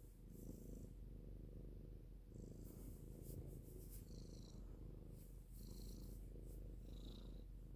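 A domestic cat purring: a faint, steady, low rumble of rapid pulses.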